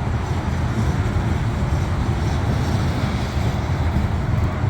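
Heavy loaded coal train rolling past: a steady rumble of coal hoppers on the rails, with the train's diesel locomotives working real hard up the grade further off.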